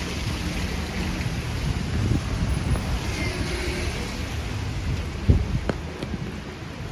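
City street ambience in the rain: a steady hiss of rain over a low rumble, with a single sharp knock about five seconds in.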